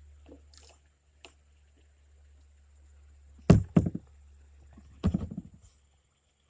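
Sharp hollow knocks against a kayak hull: a quick run of two or three loud knocks about halfway through, then a rattling cluster of smaller knocks about a second and a half later.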